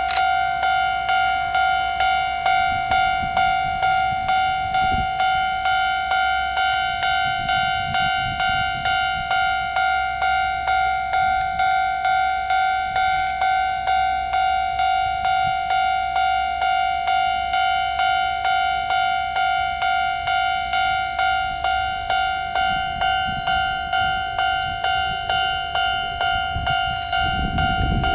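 Japanese railway level crossing warning bell ringing, a steady electronic ding repeated about twice a second, warning of an approaching train.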